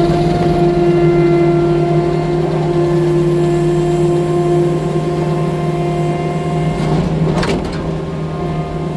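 Diesel engine of a 6-ton skid steer track loader running at a steady, high speed, with a brief clatter about seven and a half seconds in.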